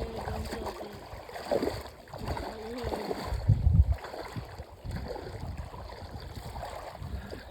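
Dead Sea water sloshing and lapping around people in the shallows, with bursts of low rumble; the strongest comes a little past the middle.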